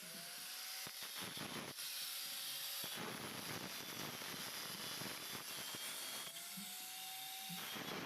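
A small electric power tool running with a steady hissing, grinding noise. Its motor tone rises near the start and again about six seconds in.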